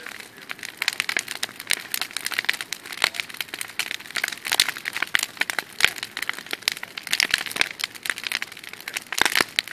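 Large bonfire crackling, with a dense, irregular stream of sharp pops and snaps.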